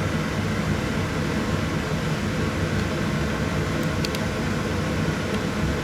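Steady hiss with a low hum underneath, with a few faint ticks about four seconds in.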